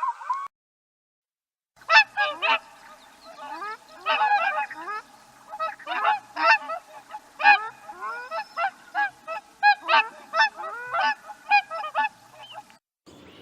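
A flock of geese honking, many overlapping calls, some rising in pitch, after a short silence; the calling stops shortly before the end.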